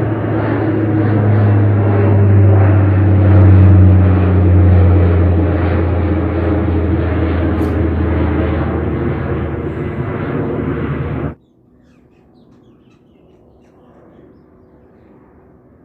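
Aircraft passing overhead, a loud engine sound whose tones slowly fall in pitch as it goes by. The sound cuts off suddenly about eleven seconds in, leaving only faint outdoor background with birds.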